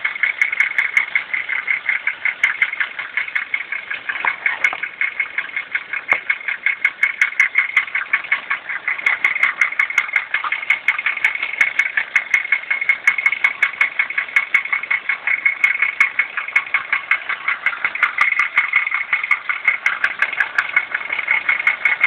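Toyota 1JZ-GE 2.5-litre inline-six running steadily with a rapid, regular knock, which the owner places near cylinders 5 and 6.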